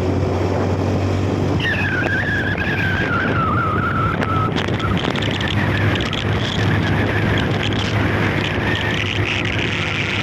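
A vehicle's engine running steadily with road noise, heard while driving. A thin, wavering high whine comes in about two seconds in and slides slowly down over a few seconds.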